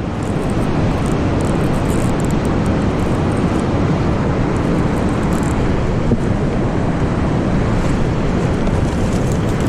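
Steady rush of water pouring from an overflowing dam, a loud, even noise with no pitched sound in it.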